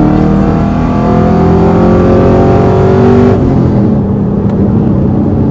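Chevrolet Camaro SS's 6.2-litre V8, running without catalytic converters through longtube headers and an NPP exhaust, accelerating hard, heard from inside the cabin: the engine note rises steadily, then a little over three seconds in the revs drop away suddenly and it settles to a lower drone.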